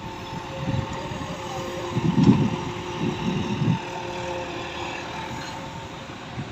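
Diesel engine of a JCB backhoe loader running steadily while digging, with a few low rumbling surges in the middle.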